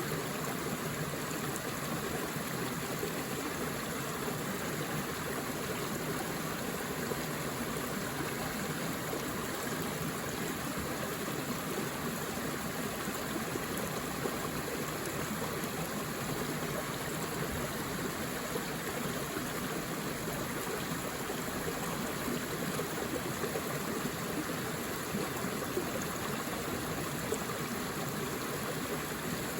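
Forest river flowing steadily over rocks, an even rushing babble of water.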